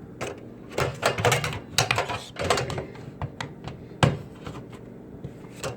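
Irregular clicks and knocks of the detached door of a Frigidaire microwave being handled and worked on, with one sharper knock about four seconds in.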